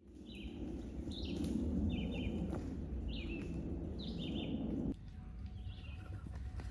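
Birds chirping, with short calls repeated about seven times over a steady outdoor background noise that drops away about five seconds in.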